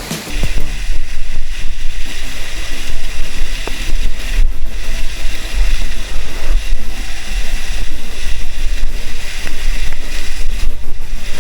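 Waterfall water rushing and splashing over the microphone: a loud, constant rush with heavy rumbling buffeting that starts abruptly just after the beginning.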